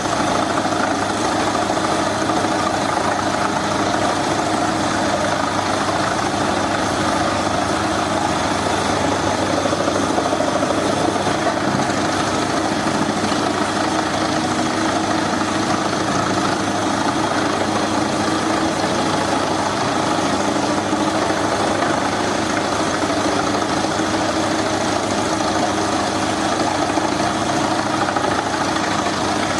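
Engine of a heavy forestry machine running steadily at a constant speed, with no load changes or impacts.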